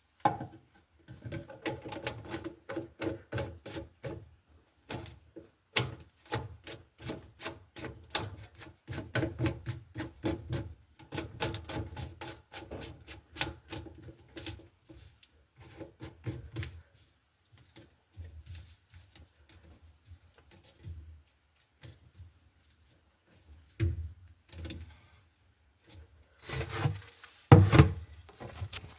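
Rapid rubbing and scraping strokes, such as hands working a sink's P-trap and drain pipe loose and clearing it out. The strokes thin out partway through, and a few louder knocks and rubs come near the end.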